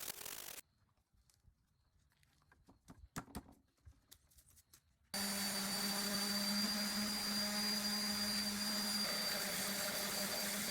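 A few light knocks, then about five seconds in a vacuum cleaner switches on and runs steadily with a low hum and a high whine, cleaning up sanding dust.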